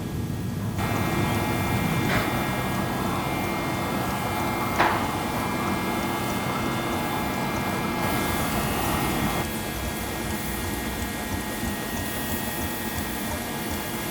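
6-inch-scale Ruston Proctor SD steam tractor running quietly in steam, a steady rumble and hiss with a thin high whine over most of it, and two sharp clicks a few seconds apart.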